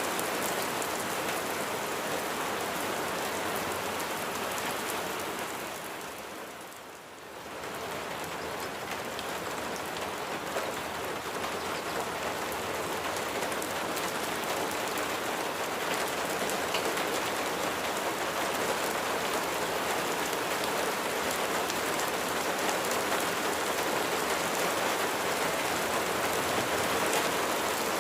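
Steady rain falling on a surface, an even hiss of many drops, which fades down briefly and swells back about a quarter of the way in.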